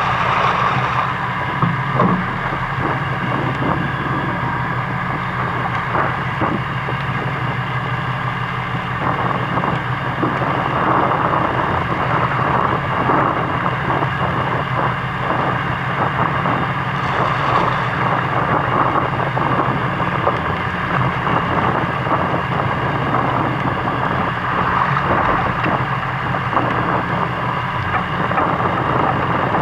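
Fishing boat's engine running steadily, with wind noise on the microphone; it gets a little louder about nine seconds in.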